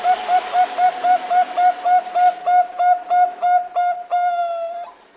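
Zebra dove (Thai perkutut bangkok) song: a rapid series of short cooing notes, about four a second, quickening slightly and ending in one longer, slightly falling note that cuts off suddenly.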